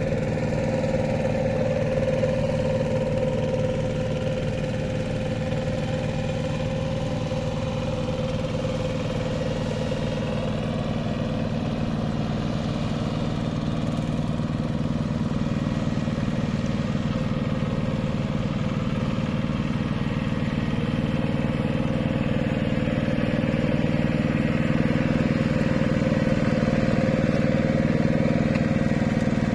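Hand tractor engine running steadily at an even speed, getting slightly louder in the last third.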